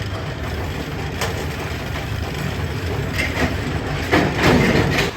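Steady low rumble of factory machinery, with a sharp knock about a second in and louder swells of noise later on.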